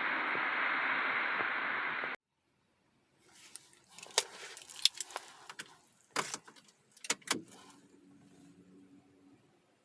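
Opel Corsa E 1.4 engine running with a steady rushing noise that cuts off abruptly after about two seconds. After a short silence come a series of light clicks and jingling rattles.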